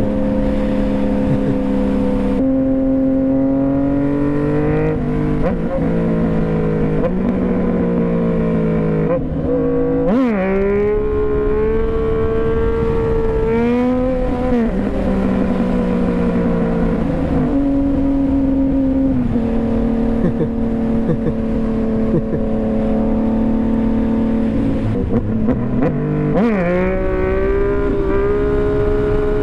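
Yamaha FZ-09 motorcycle's 847 cc inline-three engine under way. Its pitch holds steady for stretches and drops and climbs quickly several times as the rider shifts and works the throttle, over a steady low rumble of wind and road noise.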